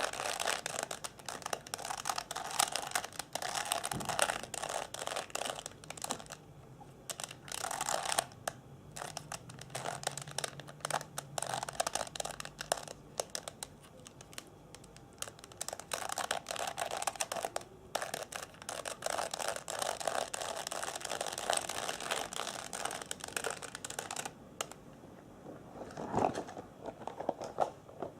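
Close-up ASMR trigger sounds: rapid crinkling and fine clicking, coming in stretches of a few seconds with short pauses between them.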